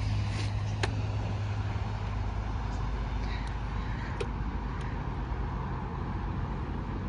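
A motor vehicle's engine running steadily: a continuous low hum, with a few faint clicks over it.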